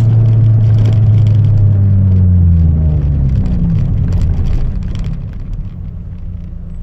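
Chevrolet Celta 1.0 four-cylinder engine with a 4x1 header and a two-inch exhaust without mufflers, running loud and held on the throttle. The pitch drops about three seconds in and the sound fades over the last couple of seconds.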